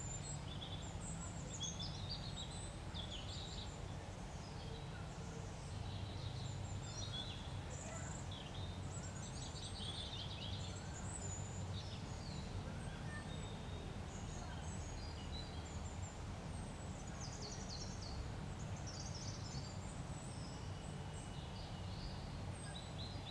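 Birds chirping in the background: many short, scattered high calls throughout, over a low steady hum.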